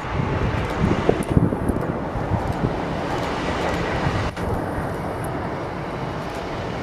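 Jet airliner engine noise, a steady wide roar, with wind buffeting the microphone during the first few seconds and a single click about four seconds in.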